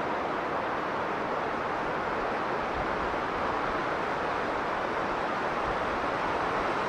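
Strong blizzard wind blowing as a steady, even rush of noise with no gusts or breaks.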